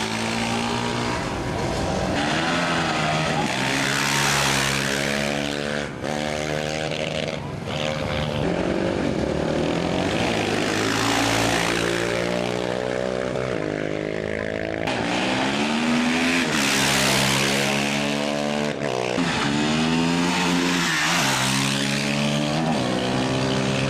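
Off-road racing motorcycle engines revving hard, the pitch climbing and falling again and again every few seconds.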